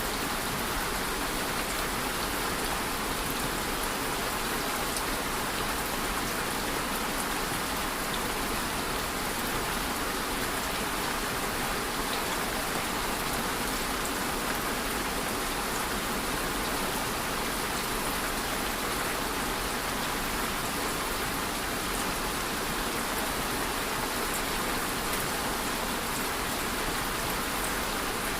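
Steady, even rain falling, with many small drops pattering on a surface.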